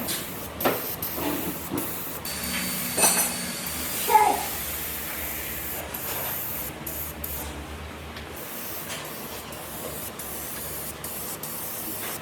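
Compressed-air spraying hiss, as from a spray gun applying finish to the wood, broken several times by brief pauses. There are a few knocks and a short clink in the first few seconds.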